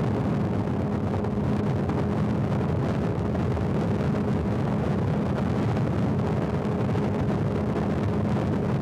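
Motorcycle engine running at a steady cruising speed with an even, unchanging hum, mixed with wind rushing over the microphone and road noise.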